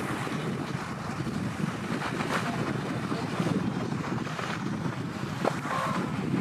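Steady wind rushing over the microphone, an even hiss with no break.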